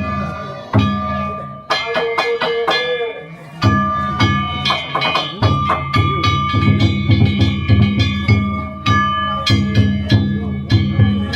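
Danjiri festival music: struck metal gongs (kane) ringing over taiko drums. Sharp gong strikes throughout, with a fast, steady drum beat coming in about three and a half seconds in.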